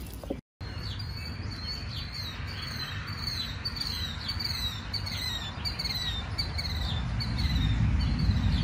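A songbird singing a steady run of short, falling chirps, about two a second, over a low rumble that grows louder near the end.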